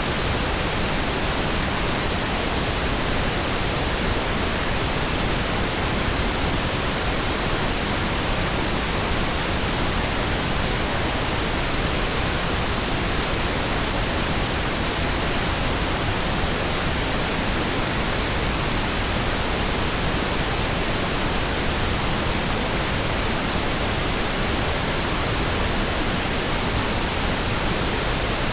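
Pink noise: an even, steady hiss spread across all pitches, without changes or breaks.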